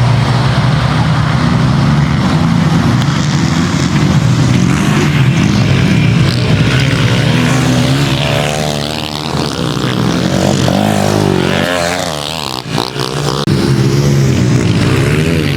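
Small four-stroke pit bike engines revving up and down on a dirt track, their pitch repeatedly rising and falling as they accelerate and back off, with a brief drop in level near the end.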